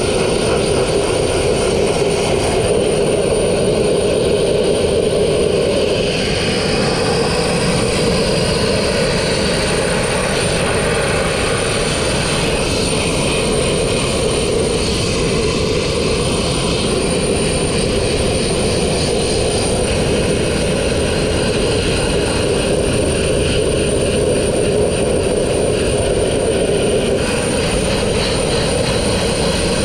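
Sandblasting rig running steadily: a continuous engine drone with a rushing hiss over it, unbroken throughout.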